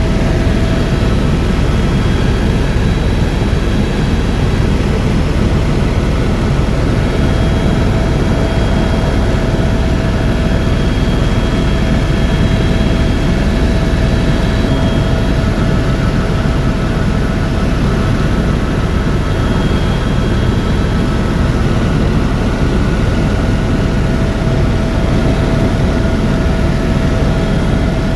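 Steady helicopter engine and rotor noise heard from inside the cabin in flight, a dense low drone with a faint steady whine above it.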